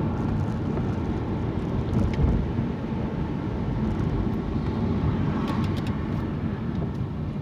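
Car running along a road, heard from inside: a steady low rumble of engine and tyres.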